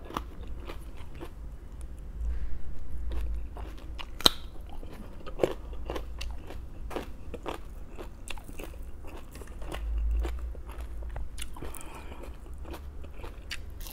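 Close-miked crunching and chewing of raw vegetables: a string of sharp, crisp crunches as mouthfuls are bitten and chewed.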